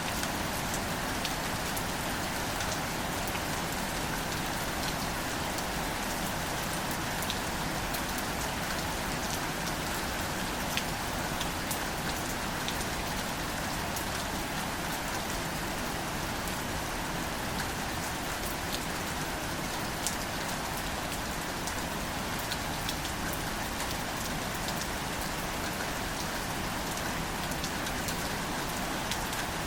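Steady, gentle rain falling on greater celandine wildflowers and their leaves: an even hiss of rainfall with many small, distinct drop ticks scattered through it.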